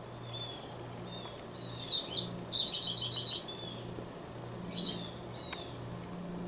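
Small birds chirping: scattered short high chirps, with a quick run of about eight chirps near the middle that is the loudest part.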